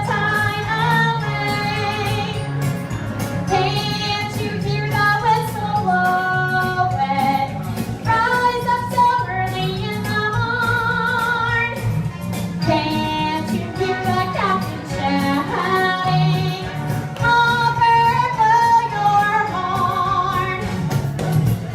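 A woman singing a children's song over backing music, with held notes that waver.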